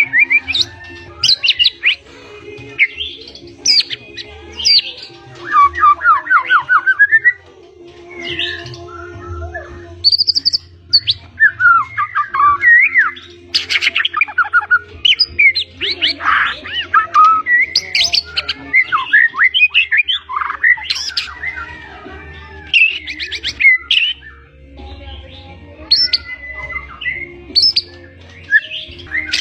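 White-rumped shama (murai batu) singing loudly and without pause: a fast, varied run of clear whistles, rapid trills and chattering phrases, with imitated calls of other birds mixed in.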